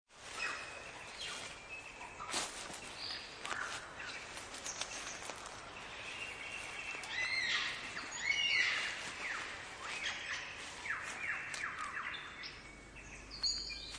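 Birdsong: many overlapping chirps, whistles and falling notes from several calls at once, busiest in the middle.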